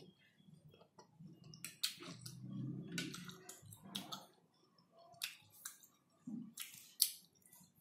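A person chewing a mouthful of instant noodles close to the microphone, with wet mouth clicks and smacks and a low hum about two seconds in.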